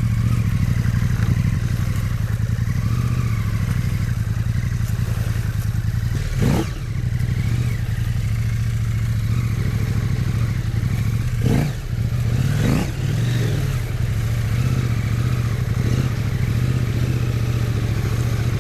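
Husqvarna Norden 901 parallel-twin adventure motorcycle engine running at low revs. The revs rise and fall once about a third of the way in and twice more around two-thirds through.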